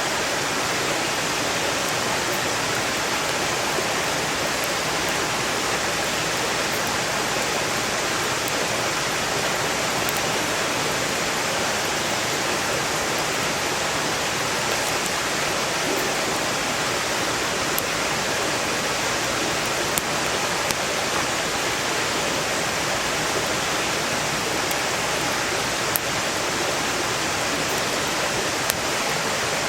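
Valley stream rushing steadily, with a few sharp crackles and pops from a wood campfire; the clearest pops come about two-thirds of the way in and near the end.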